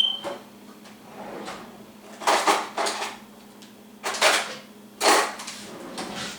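Kitchen items being handled while cooking: a sharp metallic clink with a brief ring at the start, then several short bursts of rustling and scraping about two, four and five seconds in.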